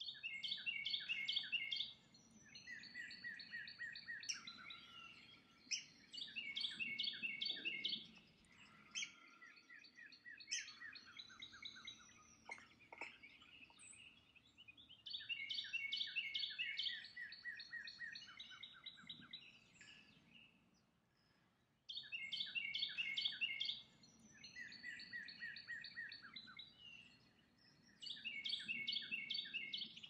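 Birds calling in short bursts of rapid, repeated high chirps every few seconds, with several calls overlapping.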